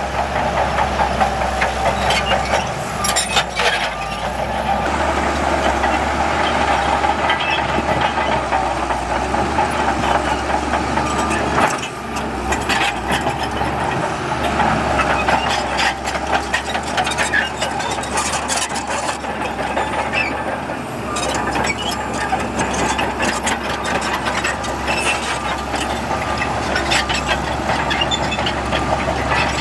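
Heavy diesel earthmoving machinery running steadily, with frequent metallic clanks and rattles over the engine noise.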